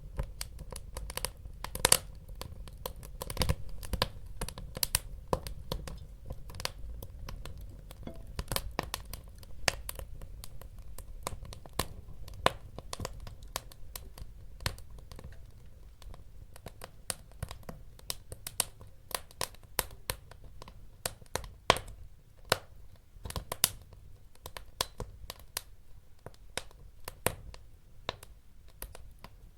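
Wood fire burning, with sharp irregular crackles and pops over a steady low rumble of the flames.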